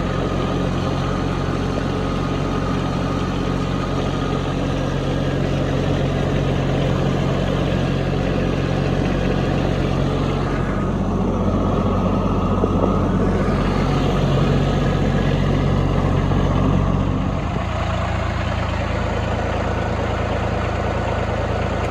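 Kubota B2601 compact tractor's three-cylinder diesel engine running steadily while driving through snow. About seventeen seconds in, the engine note changes and settles lower.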